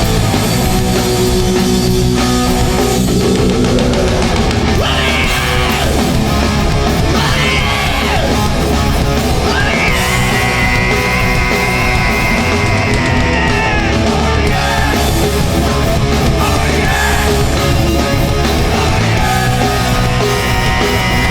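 Live hardcore punk band playing loud: distorted electric guitars, bass and drums, with a yelled vocal line held for a few seconds about halfway through.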